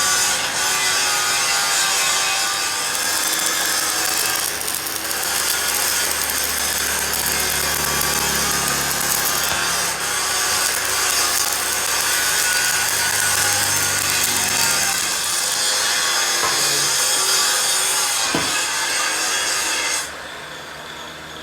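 A power tool abrading metal in a steady, rasping run, with a faint steady whine under the noise; it stops about 20 seconds in.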